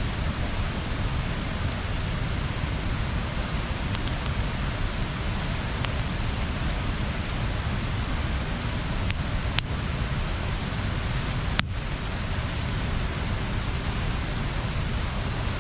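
Wood bonfire burning with a steady hissing crackle and a few sharp pops, the loudest about three quarters of the way through.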